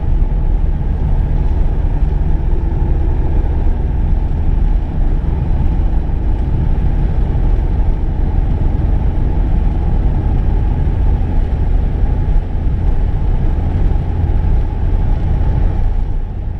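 Car driving at a steady speed: a continuous low engine and road rumble that begins to fade out near the end.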